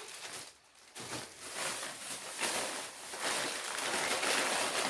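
Plastic grocery packaging rustling and crinkling as it is handled, starting about a second in and getting louder toward the end.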